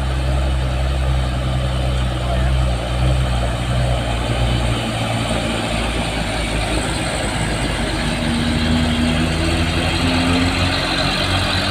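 Heavy Mitsubishi Fuso diesel truck engine running at low revs on the climb, a steady low rumble; its note rises slightly in the last few seconds.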